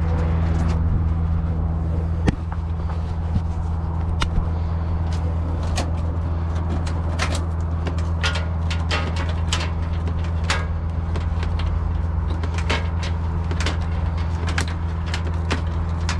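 Heavy goods vehicle's diesel engine running at a steady low drone, heard from inside the cab, with scattered sharp clicks and rattles over it.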